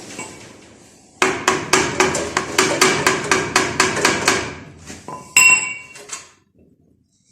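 Hammer blows on metal during engine repair work, a quick run of about four strikes a second. Near the end comes one louder metal clank that rings on briefly.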